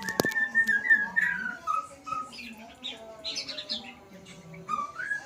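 A murai songbird singing a varied, continuous run of whistled, gliding notes mixed with higher chattering phrases and lower harsher calls. A sharp click sounds right at the start.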